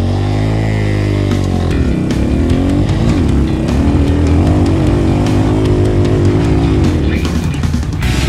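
Enduro motorcycle engine revving under hard acceleration on a steep dirt hill climb: the revs rise, dip about two seconds in, then climb again and hold high, wavering with the throttle.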